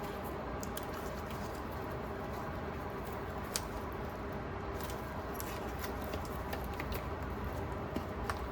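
Faint clicks and light handling noises from a silicone mold being flexed to free a cured resin piece, over a steady low room hum.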